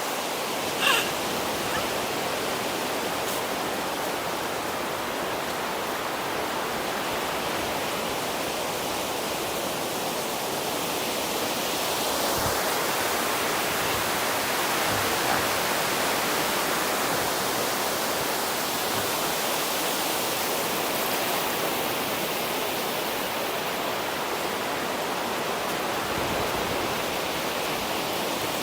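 Sea surf washing on the beach: a steady hiss that slowly swells and fades every several seconds.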